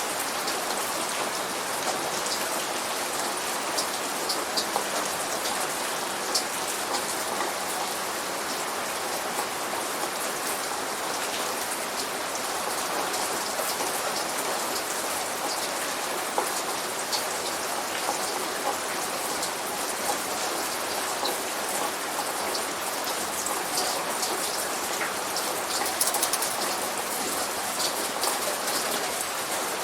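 Steady light rain falling, with many distinct drops pattering on a surface and no thunder.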